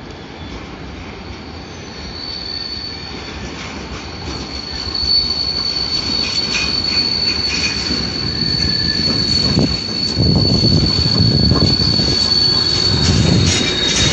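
Electric-hauled freight train approaching and passing close by, growing louder. A steady high squeal from the wheels sets in about two seconds in, and a heavy rumble and clatter of the wagons builds from about ten seconds in.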